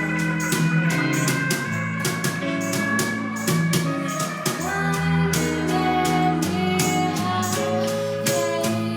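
A live band playing an instrumental passage: guitar over a moving bass line, with drum kit and cymbal hits keeping a steady beat.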